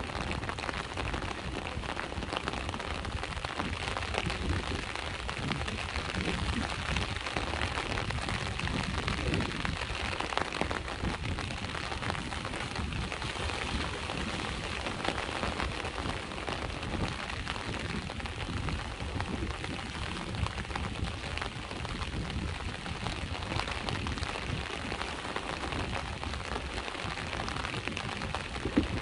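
Steady rain pattering and hissing, with the low rumble of sea waves underneath and one sharper drop or tap near the end.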